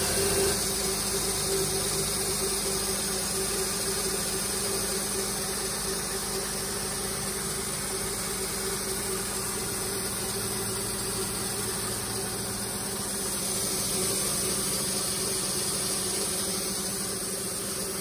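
2006 Honda Ridgeline's 3.5-litre V6 engine idling steadily on a cold start, an even hum under a light hiss. The newly replaced power steering pump is very quiet, running without any whine.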